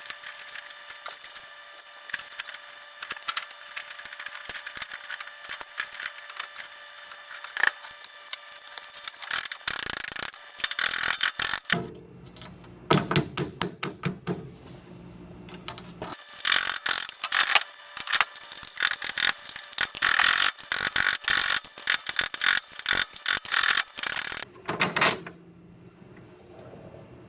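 Ratchet wrench clicking in quick runs, with metal clinks between, as bolts are tightened to fit a homemade bracket on a car's front coilover.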